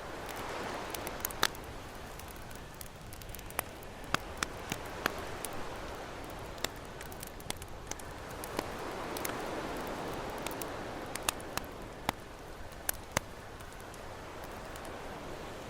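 Campfire crackling with sharp, irregular pops over the wash of ocean waves, which swell up about a second in and again around nine seconds.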